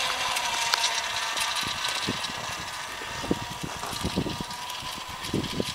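Zero electric motorcycle's motor giving a steady high whine, fading slowly, with scattered clicks and knocks.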